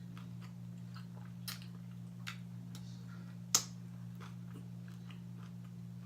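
Close-miked chewing and mouth clicks of a person eating fried food, a series of short smacks with one sharp loud click about three and a half seconds in. A steady low hum runs underneath.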